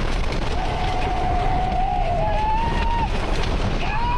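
Tornado winds roaring and buffeting around a vehicle, a heavy steady rumble. A long, high, wavering wail rides over it, held for about two and a half seconds and rising once, then starting again near the end.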